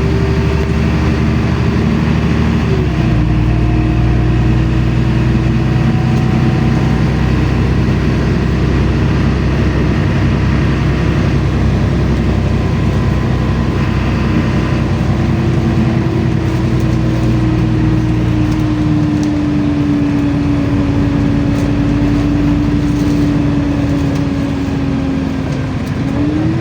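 Inside a LiAZ-5292 city bus under way: a steady engine and drivetrain rumble with a whine. The whine drops in pitch about three seconds in, slowly falls through the second half as the bus slows, and rises again at the very end as it picks up speed.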